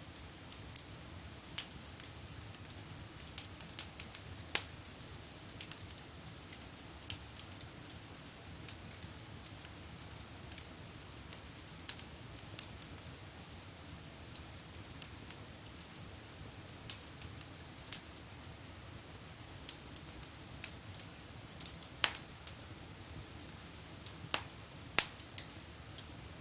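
Wood fire in a fireplace crackling: irregular sharp pops and snaps over a low steady rush of the flames, with a few louder pops about 4 seconds in and near the end.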